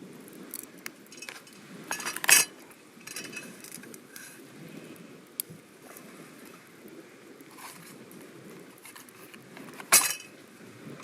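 Cooking gear clinking and knocking at a campsite cook-out, with two louder clinks, one about two seconds in and one near the end, over a steady low background rumble.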